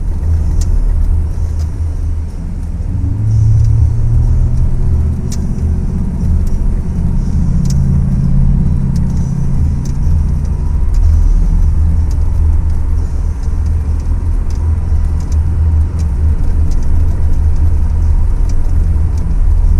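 Full-size four-wheel-drive truck driving through snow: a steady low engine and drivetrain rumble, with the engine pitch climbing a few seconds in as it pulls harder, and scattered sharp clicks.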